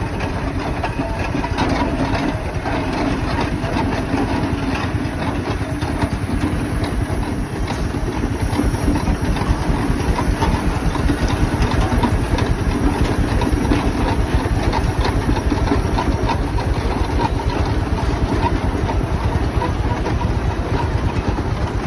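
Frick steam traction engine running steadily with a fast, even beat, a little louder from about eight seconds in.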